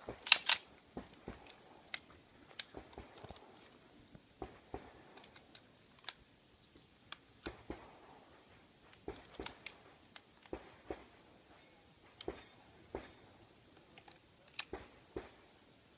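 Scattered light clicks and knocks at irregular intervals, with a sharper pair about half a second in.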